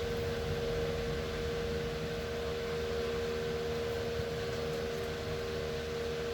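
Electric fan running steadily: an even rushing noise with a constant humming tone.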